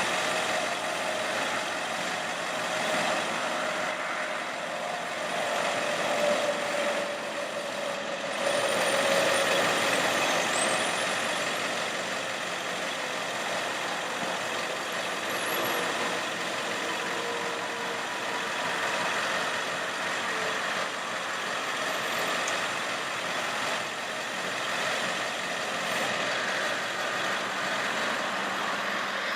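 1999 Ford F550 bucket truck running with its PTO-driven hydraulic pump engaged: a steady mechanical running noise, with a faint whine that drifts slightly lower in the first third.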